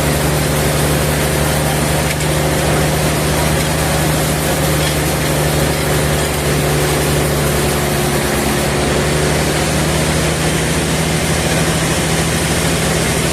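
Sawmill machinery running steadily: a constant engine drone with an even, hissing sawing noise over it, as a log is being cut.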